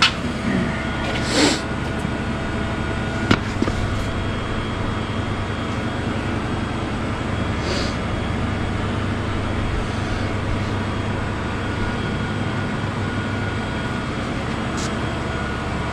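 A machine running steadily, a continuous mechanical hum with faint steady tones, with one sharp click about three seconds in.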